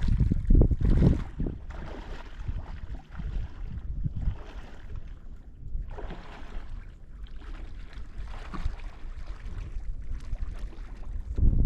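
Strong wind buffeting the microphone in gusts: a low rumble that swells and falls, loudest about a second in and again near the end.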